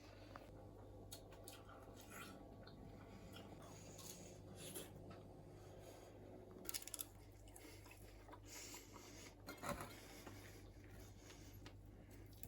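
Near silence with faint rustling and a few light clicks, slightly louder in two short clusters about seven and ten seconds in.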